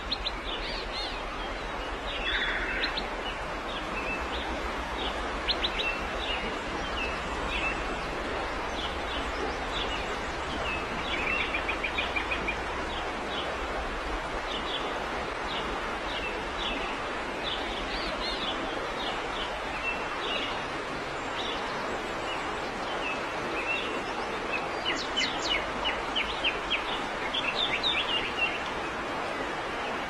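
Yellow-vented bulbul nestlings begging: thin, high chirps repeated every second or so over a steady hiss, with quicker runs of chirps about eleven seconds in and again from about twenty-five to twenty-eight seconds.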